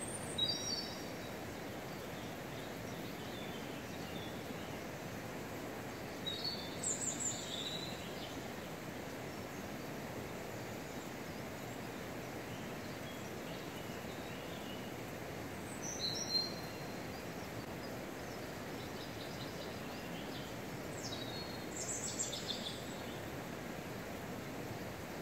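A steady wash of river water, with a songbird singing four short, high phrases that fall in pitch, spaced several seconds apart.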